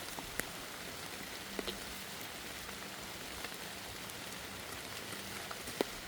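Steady rain falling, with a few sharp drop impacts standing out.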